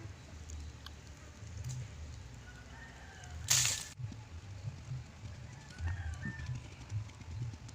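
Outdoor ambience: a steady low rumble with a few faint bird chirps, and a short loud noisy burst about three and a half seconds in.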